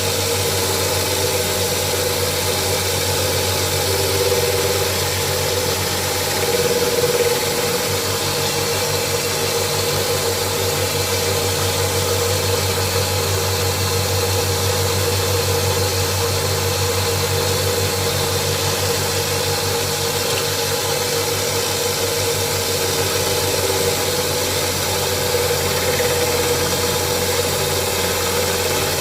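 Electric grinding machine running steadily with a hum and hiss as the back of an old steel chisel is ground flat.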